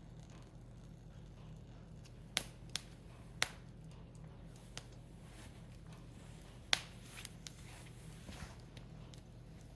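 Firewood burning in a Picogrill fire pit, crackling with sharp single pops at irregular intervals over a low steady hum.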